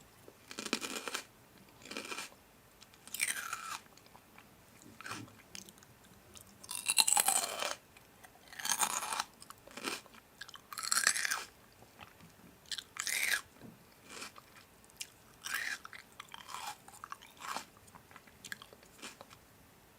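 Crunchy food being bitten and chewed, in separate crunching bursts every second or two with short quiet gaps between.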